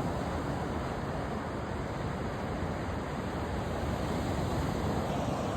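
Steady rushing wash of ocean surf breaking on the beach, even in level throughout.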